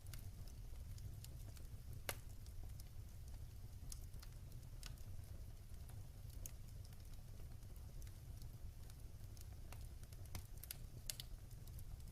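Wood fire burning in a fireplace, crackling with scattered sharp pops over a low steady rumble of the flames; the loudest pop comes about two seconds in.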